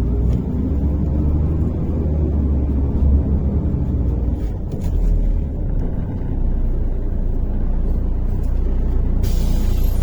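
Interior rumble of a MAZ-103.485 city bus on the move, engine and road noise heard from inside the cabin. A hiss sets in near the end.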